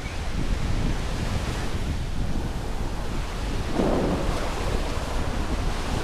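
Surf washing onto a sandy beach, with wind buffeting the microphone in a low rumble; a louder surge comes about two-thirds of the way through.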